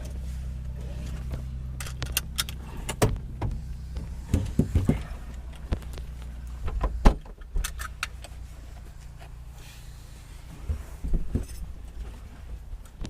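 Repeated clicks, knocks and light rattles of objects being handled, over a steady low hum that fades about halfway through.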